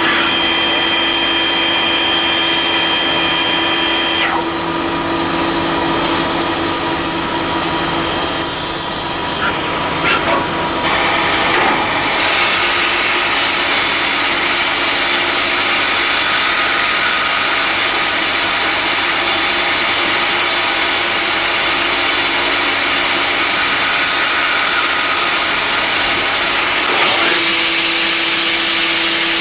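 CNC lathe turning metal with a carbide insert: a steady hiss with a high whine running over it. The sound changes character about four seconds in, again around twelve seconds, and near the end, as the cut changes.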